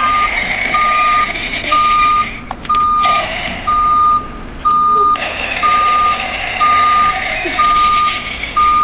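Recorded road roller sound: a reversing alarm beeping about once a second over the machine's running engine noise, which drops back briefly a few times.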